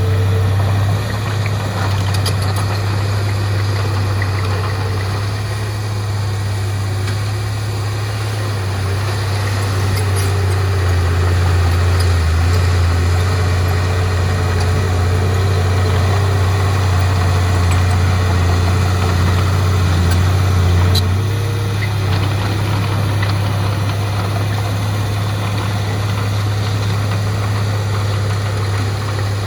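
Heavy diesel earthmoving machinery running steadily with a deep, continuous engine drone. The drone grows fuller and a little louder for a stretch, then eases back about two-thirds of the way through.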